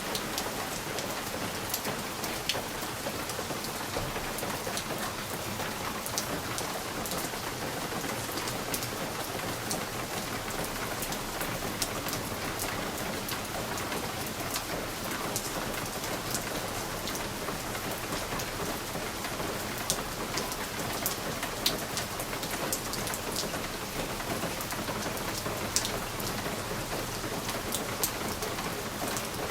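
Steady rain pattering on a window pane, with scattered sharper ticks of single drops hitting the glass.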